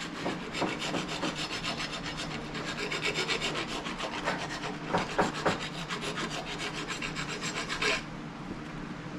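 Round file scraping in quick, even strokes inside the pin holes of a steel GM A-body door hinge, cleaning them up for new pins; the filing stops near the end.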